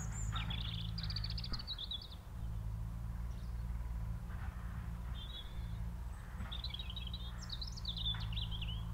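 A songbird singing quick, high warbling phrases: one in the first two seconds, a short one about five seconds in, and a longer one near the end. A steady low rumble runs underneath.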